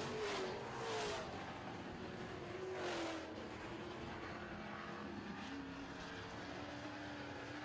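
Super trucks racing on a dirt oval: engines under power as the field runs, with trucks passing close, their pitch dropping as they go by, about a second in and again about three seconds in. After that the engines carry on more steadily, further off.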